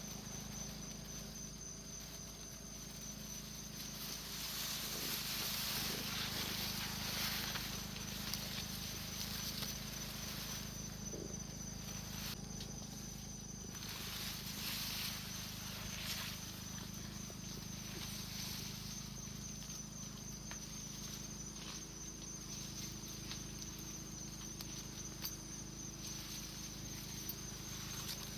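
Insects trilling in a steady, high, slightly wavering drone, with a rustling hiss that swells a few times.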